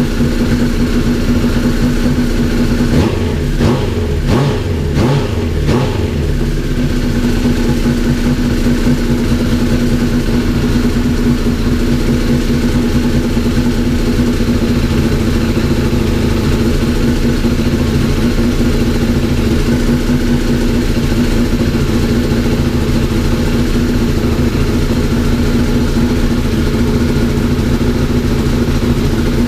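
Honda CBR1000RR's inline-four engine running after its gearbox rebuild, revved a few times about three to six seconds in, then settling to a steady idle.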